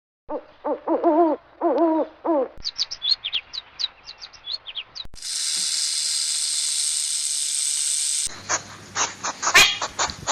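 Different animal sounds cut one after another: a few short pitched calls that bend in pitch, then a quick run of high chirps, then a steady hiss for about three seconds, then rapid clicking near the end.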